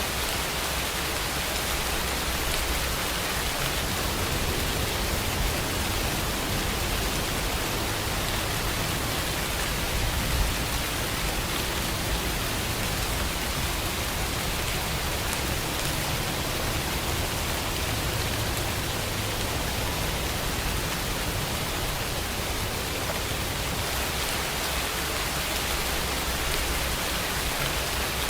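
Steady rain falling, an even hiss, with a low rumble underneath that swells and fades.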